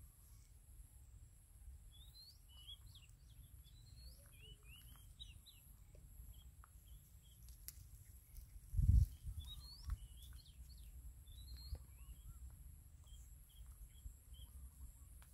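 Small birds chirping in quick, short sweeping notes, in two spells, over a steady low rumble. About nine seconds in comes one brief, loud, low thump.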